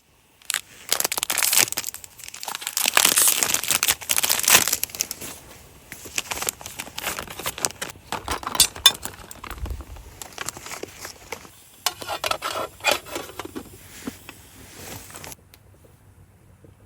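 Crinkling and rustling handling noise in irregular bursts with a few light clinks, loudest in the first few seconds and cutting off abruptly near the end.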